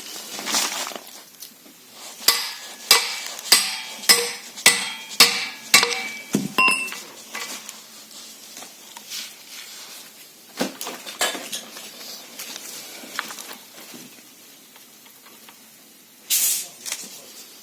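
Metal being struck and handled: about seven sharp, ringing metal-on-metal taps in an even run, then scattered clinks and knocks of steel parts.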